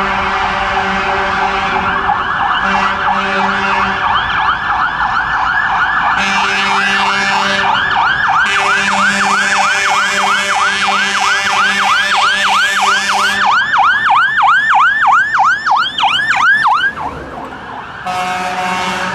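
Several fire engines' electronic sirens on fast yelp, overlapping and out of step, with a low steady horn-like tone cutting in and out. The sirens stop abruptly near the end.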